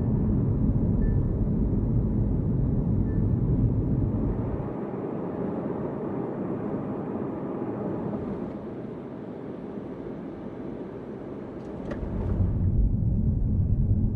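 Hyundai Kona Hybrid driving, a steady low rumble of road and tyre noise that drops away for several seconds in the middle as the car slows, then rises again near the end with a few short clicks.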